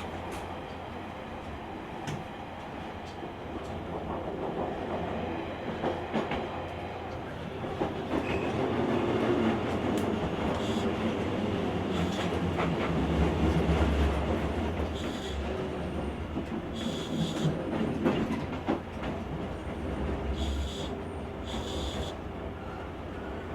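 JR Kyushu 883 series electric limited express train under way, heard from the vestibule deck of a motor car: rumbling wheels with rail-joint clicks. The sound swells about eight seconds in and eases off again after about fifteen seconds. Several brief high-pitched squeals come from the wheels in the second half.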